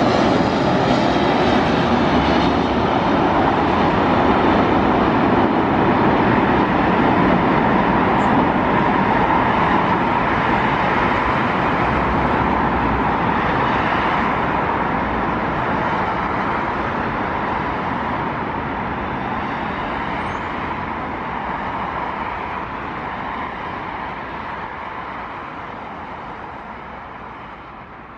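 Jet airliner engines, loud and steady for the first half, then fading gradually as the aircraft moves away.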